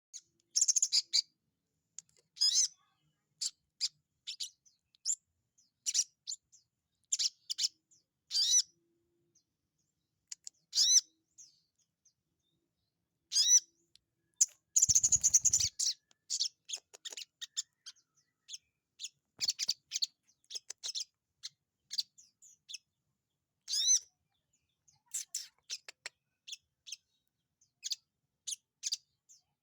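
Little spiderhunter (sogon) giving sharp, high chirping calls in short irregular bursts, with a denser run of calls about halfway through over a brief low rumble.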